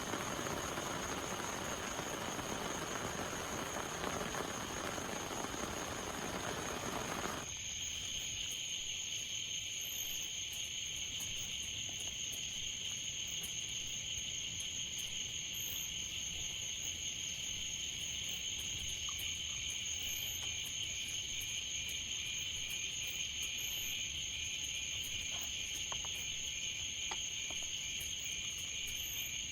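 Steady hiss of heavy rain that cuts off abruptly about seven seconds in, giving way to a steady chorus of crickets and other insects, a continuous high trill with a faster pulsing chirp under it.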